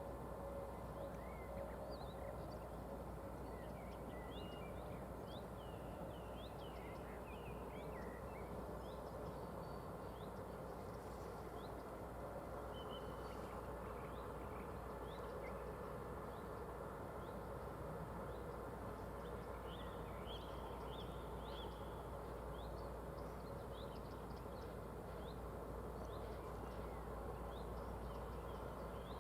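Small birds chirping in short, scattered calls over a faint, steady low background hum.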